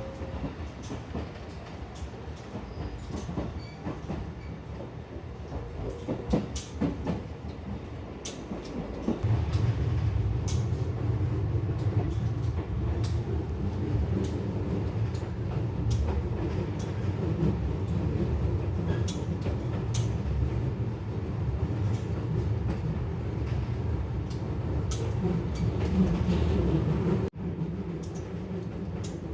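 Electric commuter train running, heard from on board: a steady low rumble that grows louder about nine seconds in as the train picks up, with scattered clicks and knocks from the wheels and carriage. The sound briefly drops out near the end.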